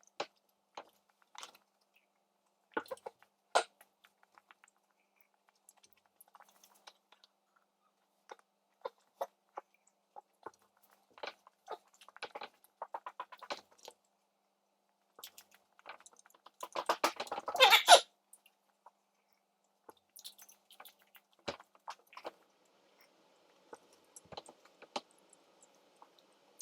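Close chewing and mouth sounds of someone eating chicken nuggets: scattered, irregular wet smacks and clicks. About 17 seconds in comes a louder, denser cluster of noise, and a faint steady hum comes in near the end.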